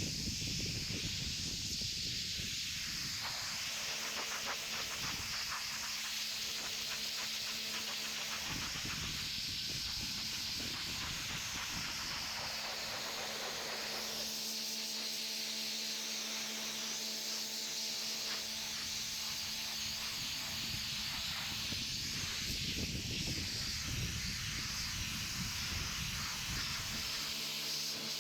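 Pressure washer spraying water onto an old weathered wooden farm gate to strip off the dirt: a steady hiss of spray with an even hum underneath.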